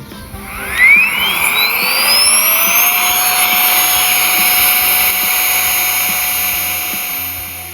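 Small electric blower motor switched on: it spins up with a rising whine over the first few seconds, then runs steadily with an airy rush, and fades near the end.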